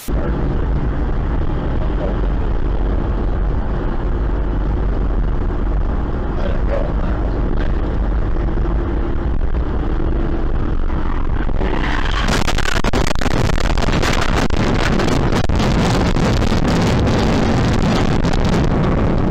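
A car driving, with steady engine and road noise. From about twelve seconds in, a louder rushing noise with crackling comes in.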